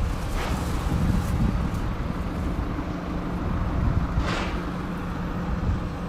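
Wind buffeting the microphone outdoors, a steady low rumble, with two brief whooshes about half a second and about four seconds in.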